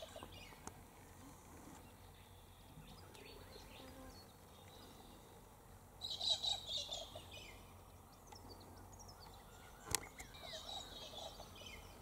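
Faint bird calls: a twittering cluster about six seconds in, then a few thin sweeping notes near the end. A single sharp click sounds about ten seconds in.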